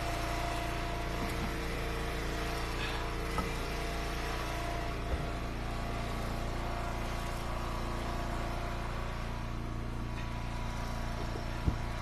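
Gas engine of a hydraulic log splitter running steadily at a constant speed, with a few faint knocks.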